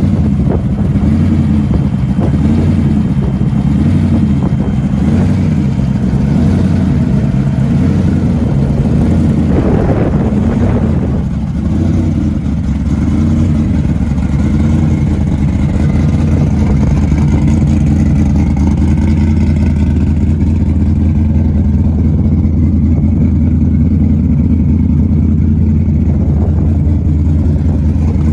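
A truck's engine running steadily, a loud low drone whose pitch wavers slightly in the first ten seconds and then holds even.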